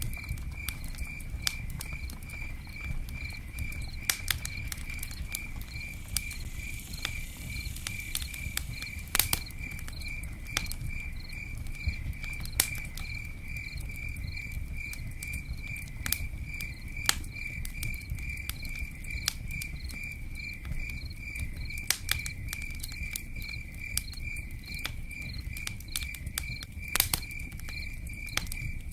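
A cricket chirping steadily, about two chirps a second, over a constant low rumble of rain, with scattered sharp crackles from a campfire throughout.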